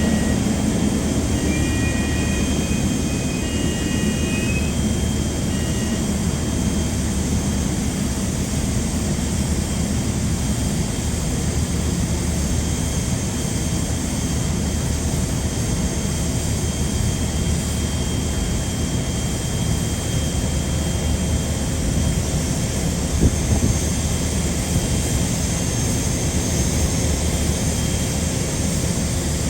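Jet airliner engines running, a steady rumble and hiss with a faint whine. A few short high chirps sound in the first few seconds.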